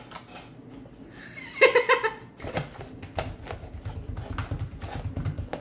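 Slime being kneaded and squished by hand, a run of small sticky clicks and pops, denser in the second half over a low handling rumble. A short pitched vocal sound, like a laugh, comes about a second and a half in.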